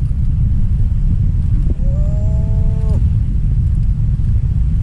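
Steady low rumble of wind buffeting the microphone, with one drawn-out, voice-like call lasting a little over a second, about two seconds in.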